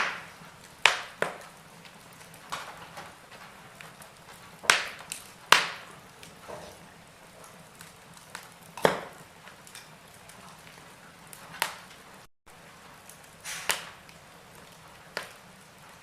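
Wood fire in a fireplace crackling: irregular sharp pops and snaps, a handful of them loud, over a soft steady hiss.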